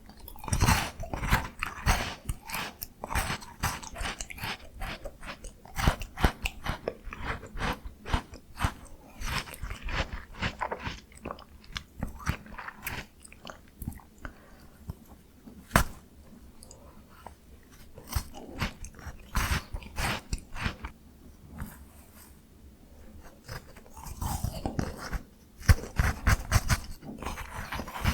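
Close-miked biting and chewing of a frozen miniature Jaws Bar ice cream: crisp, crackling crunches with wet chewing between them. A quieter pause of chewing comes about halfway through, and a louder run of bites comes near the end.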